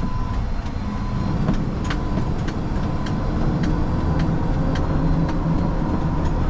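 Rollback tow truck driving on a gravel road, heard from inside the cab: a steady low engine and road rumble with scattered sharp clicks and rattles.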